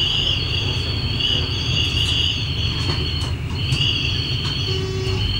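X11 electric multiple unit running, heard from the driver's cab: a steady low rumble with a high-pitched wheel squeal over it that wavers slightly and drops out briefly about three and a half seconds in.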